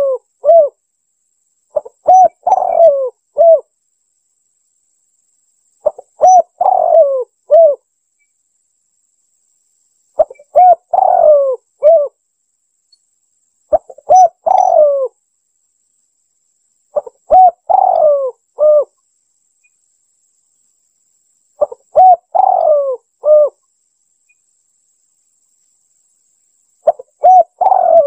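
Spotted dove cooing: a short phrase of several rising-and-falling coos, repeated about every four seconds with silence between phrases.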